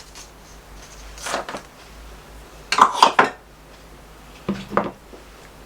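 Hard art supplies clinking and knocking on a desk, in three short clusters, the loudest about three seconds in.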